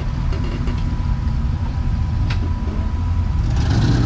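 Off-road rock crawler's engine running low and steady while it creeps over rocks, with one sharp click or knock about two seconds in. Near the end the engine starts to pick up revs.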